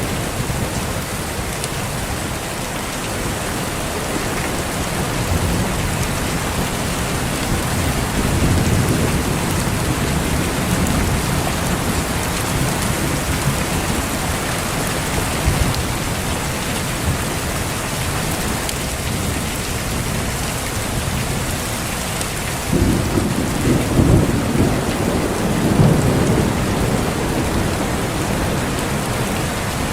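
Heavy rain falling steadily, with rolls of thunder: a low rumble swells about 8 seconds in, and a louder one breaks in suddenly about 23 seconds in and rolls on for a few seconds.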